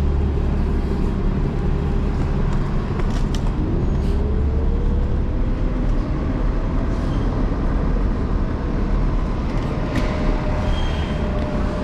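Busy city street traffic with a steady low rumble. About four seconds in, a vehicle's motor whine rises in pitch, then levels off and holds.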